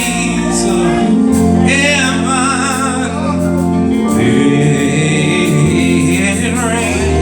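Gospel choir singing with vibrato over instrumental accompaniment, the held bass notes changing chord a few times.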